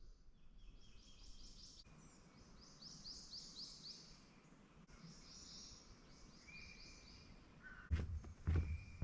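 Birds singing in a swampy woodland: runs of quick, high, rising chirps repeating over a faint outdoor background. Near the end come several thumps, louder than the calls.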